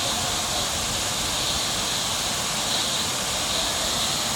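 Waterfall: water falling with a steady, even rushing noise.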